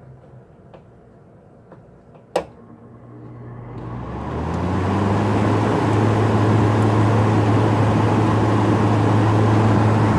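Frigidaire 5000 BTU window air conditioner starting up for the first time: a sharp click a couple of seconds in, then the unit spins up over about two seconds into a steady hum with a rush of air. The compressor is barely heard under the fan.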